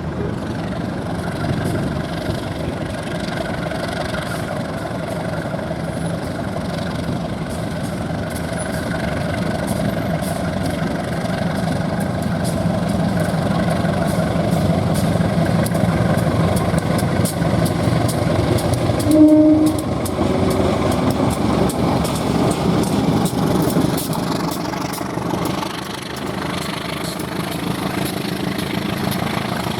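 Train passing with a steady rumble and a rapid clatter of wheels over the rails. A brief horn toot comes a little past halfway.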